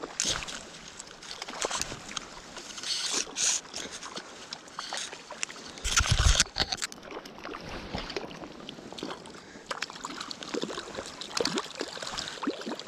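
River water sloshing and splashing unevenly as a hooked trout is played in shallow water, with scattered small clicks and a louder splash or knock about six seconds in.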